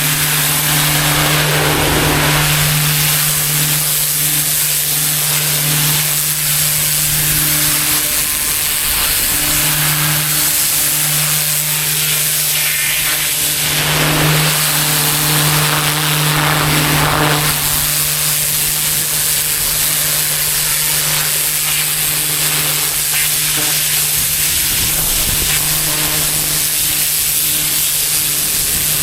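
Pressure washer running steadily: a constant engine hum under the loud hiss of the high-pressure water spray, which swells a few times as the spray shifts.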